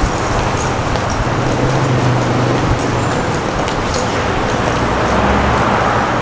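City street ambience dominated by road traffic: a steady wash of vehicle noise, with a passing engine's low hum standing out about two seconds in.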